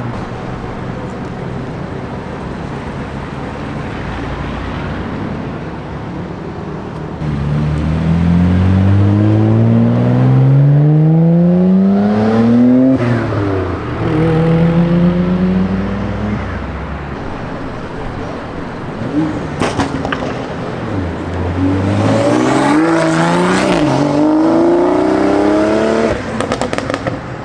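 Car engines running at a low, steady hum, then one accelerating hard: its pitch climbs for several seconds, dips at a gear change and climbs again. A second run-up comes near the end.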